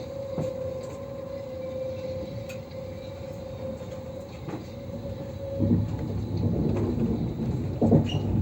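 AVE high-speed train running: a steady hum over a rumble, the hum stopping about five seconds in as the rumble grows louder.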